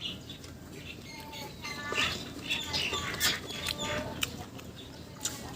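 Birds chirping: a quick string of short calls that thickens through the middle, with a few sharp clicks among them.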